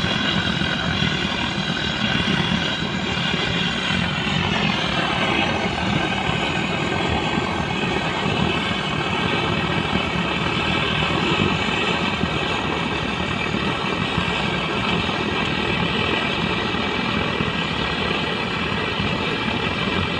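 The Kirloskar diesel engine of a JCB 3DX backhoe loader running steadily. About four to five seconds in its pitch drops slightly, then holds steady.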